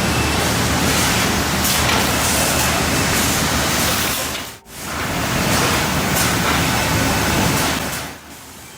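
Sawmill machinery running, a loud, dense mechanical rush of saws and log-handling equipment. It cuts out abruptly for a moment about halfway through, then comes back and falls away near the end.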